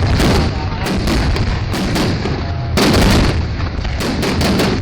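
Aerial fireworks exploding in quick succession, several bangs a second overlapping over a continuous low rumble, with the loudest cluster about three seconds in.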